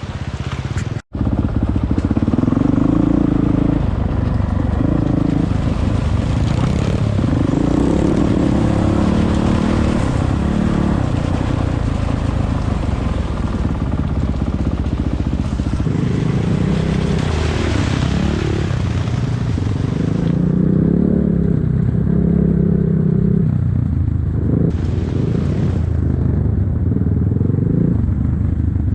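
Enduro motorcycle engine running under load, its pitch rising and falling as the throttle is opened and closed. The sound cuts out completely for a moment about a second in.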